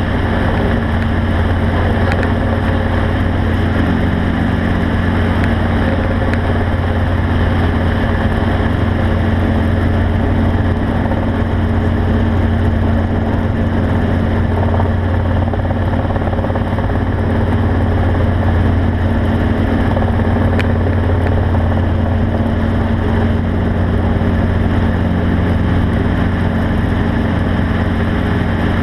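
A motor vehicle's engine running steadily, a constant low drone that does not change for the whole stretch.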